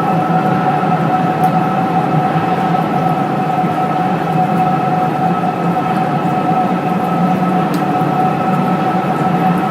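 Steady running noise of a machine or vehicle, loud and unchanging, with a constant high whine over a low hum.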